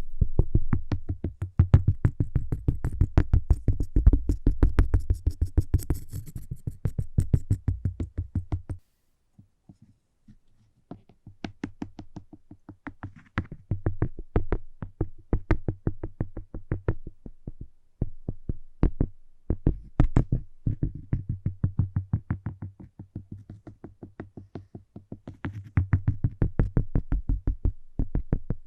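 Fingertips or nails tapping rapidly on cork, several taps a second, with a dull low thud under many taps. The tapping stops briefly about nine seconds in, with only a few faint taps, then starts again.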